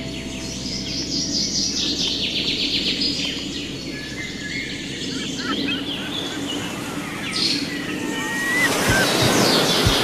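Several birds singing and calling, with fast repeated trills and a clear whistled note. Near the end a rushing noise swells up.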